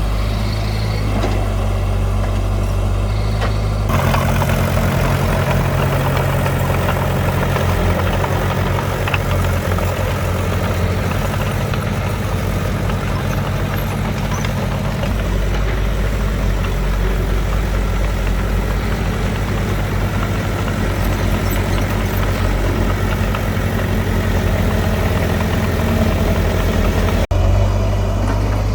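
Heavy diesel engines of earthmoving machinery running steadily at a low pitch. The sound changes abruptly about four seconds in and again near the end, as if cut between separate recordings.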